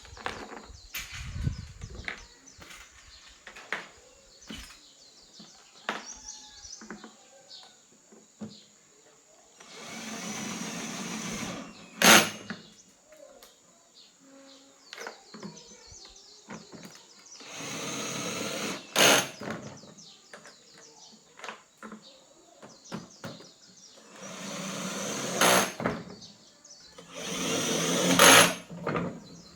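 A small motor running in four short spells of a second or two, each ending with a sharp, loud click, with light clicks and knocks of handling in between.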